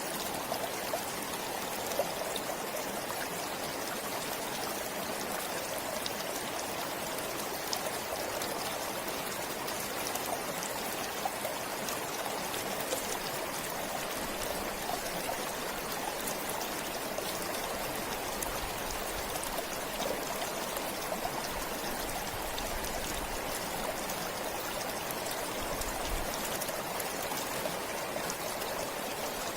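Forest stream flowing steadily, water trickling and splashing with many small droplet ticks.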